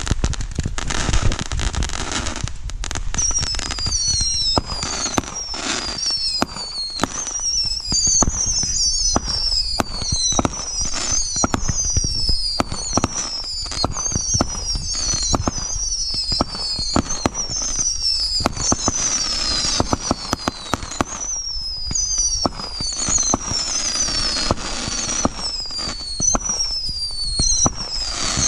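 Consumer fireworks going off in rapid succession: dense bangs and crackling, with shrill whistles falling in pitch, one after another and often overlapping, from about three seconds in.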